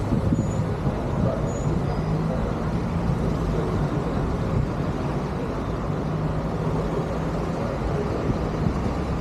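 Road traffic: a steady low rumble of motor vehicles, with an engine hum that swells and fades twice.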